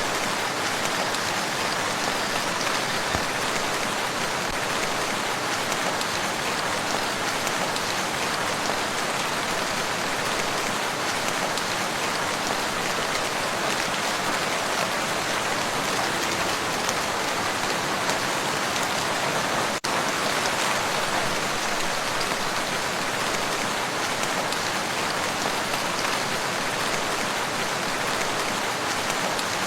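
Steady rain falling on a lake surface and shoreline, a dense even patter, with a momentary cutout about twenty seconds in.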